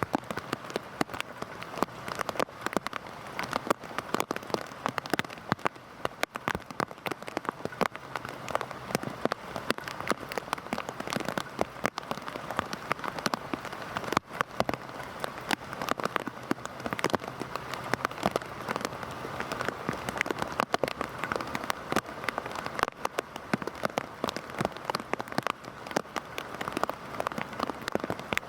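Heavy rain falling steadily, a continuous hiss dotted with many sharp individual drop impacts on a hard surface.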